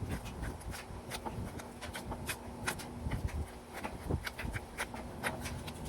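Irregular light clicks and taps of hands pressing and smoothing epoxy putty onto a plastic gas tank, with a steady low buzz that drops out for a few seconds in the middle.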